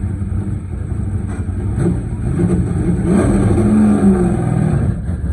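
A car engine running close by, revving up in the middle and dropping back near the end.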